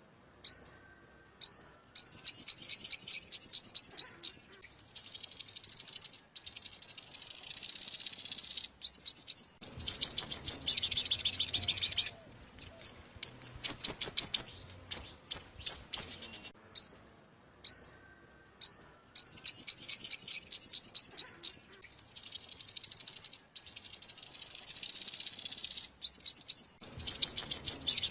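Sunbird song played as a bird-trapping lure: phrases of rapid, high, trilled notes with brief pauses between them. Partway through, the same sequence of phrases starts over again, as a repeating loop.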